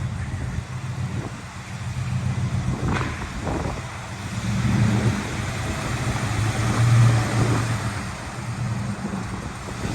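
Car engine running at low revs, growing louder twice, around five and seven seconds in. A few short clicks come about three seconds in.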